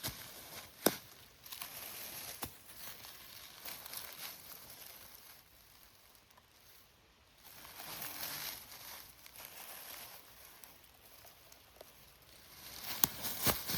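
Rustling and crunching of leaves and twigs on a forest floor, coming and going in patches, with a sharp snap about a second in and another near the end.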